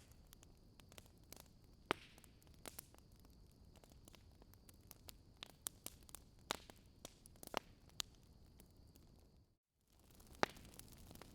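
Wood fire burning in a fireplace, crackling with scattered sharp pops over a faint hiss. The sound cuts out completely for a split second near the end, then resumes.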